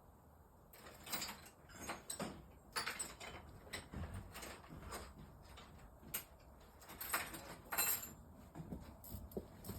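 Irregular clinks, knocks and scrapes of a hand wrench and metal parts being worked, as bolts on a snowmobile are loosened.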